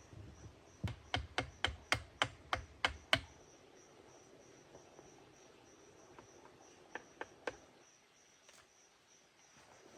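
A quick run of about ten sharp knocks, about four a second, then three more a few seconds later, over a steady high insect chirring.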